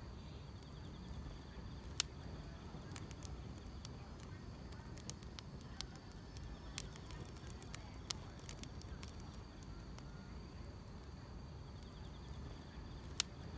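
Wood fire crackling: irregular sharp pops, the loudest about two seconds in and near the end, over a low rumble. Insects chirp faintly in a steady high trill behind it.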